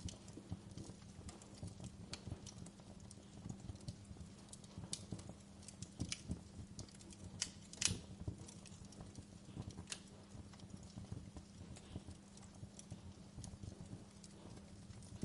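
Wood fire crackling in a fireplace: irregular small pops and snaps over a low, steady rumble and hum, with the sharpest pop about halfway through.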